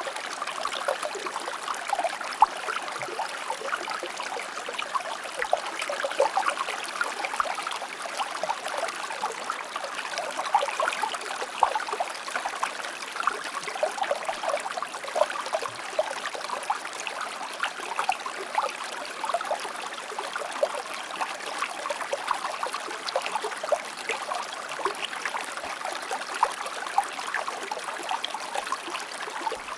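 Stream water flowing and trickling over rocks, a steady babble of small splashes and gurgles.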